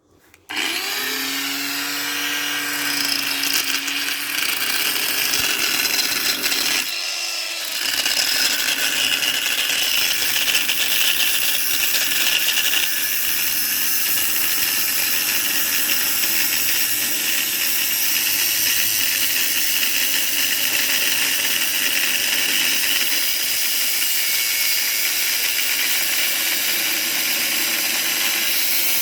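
High-speed electric power tool motor running, its pitch rising as it spins up over the first few seconds and then holding a steady, loud high-pitched whir.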